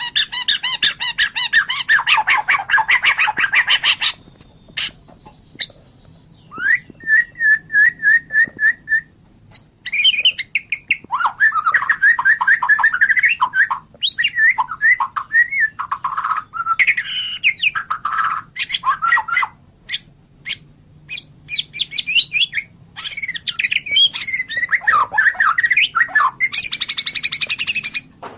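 White-rumped shama (murai batu) singing a long, varied song. It opens with a few seconds of very fast rattling chatter, then a quick run of short, even whistled notes, then changing whistles and trills with brief pauses between phrases.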